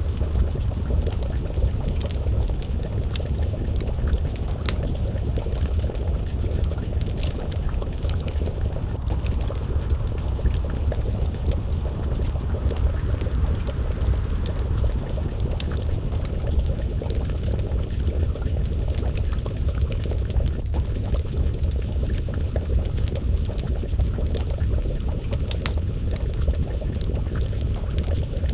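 A pot of stew bubbling at a simmer over a steady low rumble, with scattered sharp crackles and pops from a wood fire.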